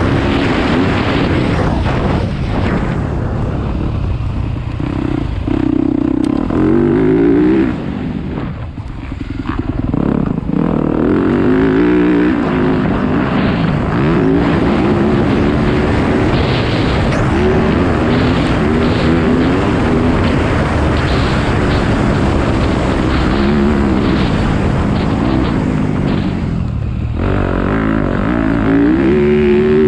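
Motocross dirt bike engine revving up and down over and over as the bike is ridden hard, with the throttle shut off for a moment about eight seconds in before it opens up again.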